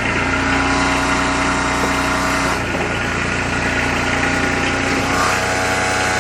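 An engine running at a steady idle, with an even drone and no revving.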